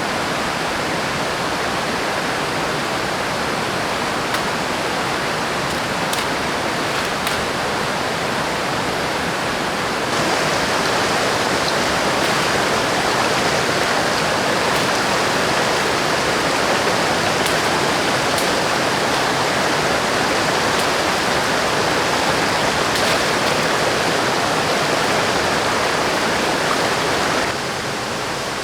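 Steady rush of river water. It gets louder about ten seconds in and drops back shortly before the end.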